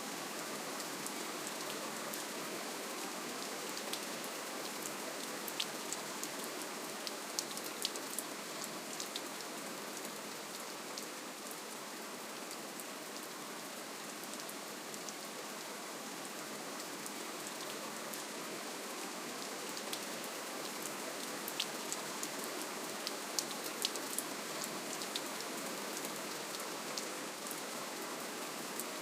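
Steady rainfall, an even hiss with individual drops ticking sharply on a hard surface, clustering in a few short spells.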